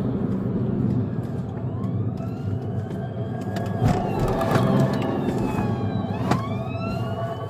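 Police car engine and road noise at speed during a pursuit, with a siren wailing in rising and falling sweeps from about a second and a half in, and a few sharp knocks.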